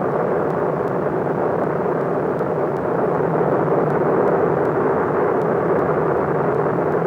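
Lava fountain of the Kilauea eruption: a steady, unbroken rushing noise that holds even throughout.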